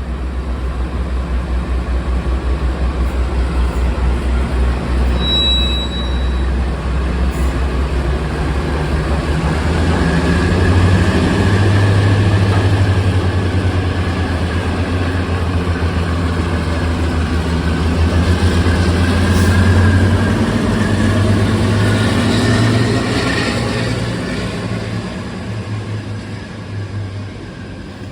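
Class 52 Western diesel-hydraulic locomotive D1015's twin V12 diesel engines running under power, the engine note stepping up about ten seconds in and holding loud before fading near the end.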